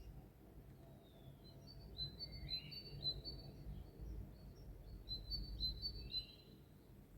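A songbird singing a rapid run of short, high, repeated chirping notes, with a few rising slurs mixed in. It starts about a second and a half in and stops about six seconds in.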